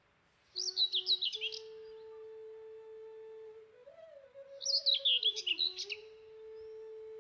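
A songbird singing two quick twittering phrases, the first about a second in and the second about five seconds in. Under them is a soft held note that slides slowly from one pitch to the next.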